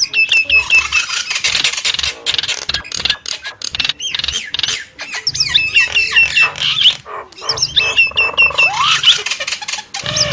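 Nias starling calling: runs of short, sharp whistled notes, repeated several times in quick succession, mixed with clicks and squawks, and one rising whistle near the end.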